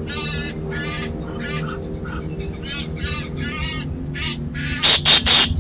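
Harsh, repeated bird calls, about two or three a second, with a few much louder, harsher calls near the end.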